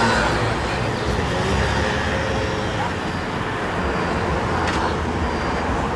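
Steady road-traffic noise, an even low rumble of passing vehicles.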